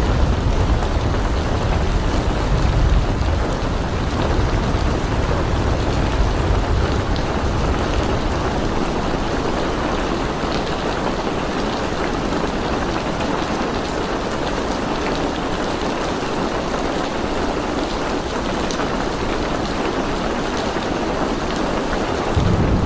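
Steady rain falling, a continuous hiss of drops on surfaces. A low rumble sits under it for roughly the first eight seconds and swells briefly again near the end.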